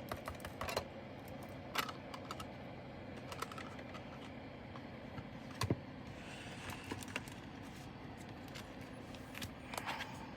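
Scattered light clicks and taps from handling small plastic containers and bags of diamond painting drills, over a steady low hum.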